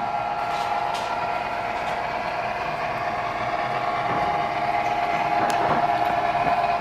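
Model train running on the layout's track: a steady motor whine with a few sharp clicks, growing slightly louder in the second half.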